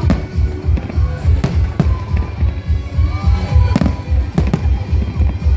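Fireworks going off in several sharp bangs, over loud music with a heavy, pulsing bass beat.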